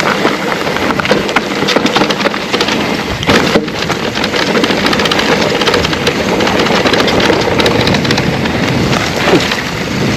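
Electric mountain bike ridden over a rough, overgrown trail: a steady rough noise of the tyres on the ground, with constant knocks and rattles from the bike and one heavier knock about three and a half seconds in.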